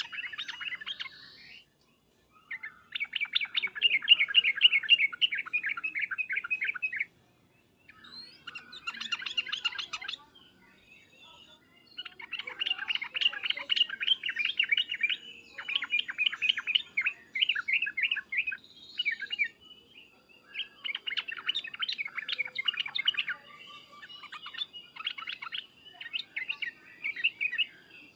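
Yellow-vented bulbul (trucukan) giving loud, excited chattering song in repeated bursts of rapid bubbly notes, each burst a few seconds long with short pauses between.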